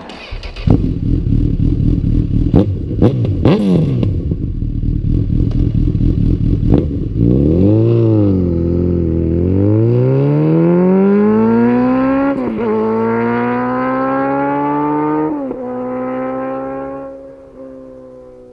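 Honda CB1000R inline-four motorcycle engine through a Yoshimura R-77 exhaust: a rough, low running note with sharp pops, then the engine pulls away with rising revs, changing up twice, and fades into the distance near the end.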